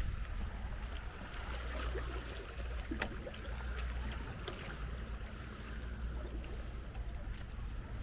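Wind rumbling on the microphone over the soft wash of small waves on a sandy beach, with a few faint clicks.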